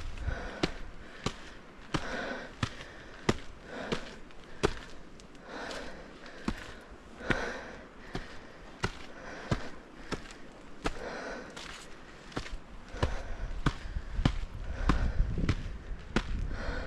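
A walker's footsteps at a steady pace, about one and a half steps a second, each a sharp click or knock. A low wind rumble on the microphone builds near the end.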